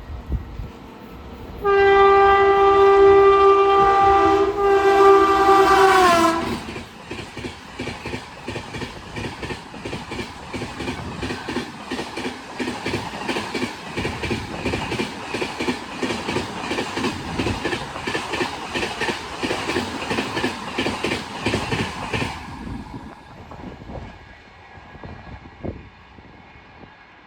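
A passing train's locomotive horn blows loudly for about four seconds, its pitch dropping at the end as it goes by. Then comes the rhythmic clickety-clack of the coaches' wheels over the rail joints for about fifteen seconds, fading out near the end.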